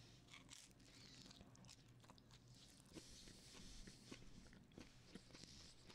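Faint chewing of a pizza slice close to a microphone, with soft, scattered mouth clicks.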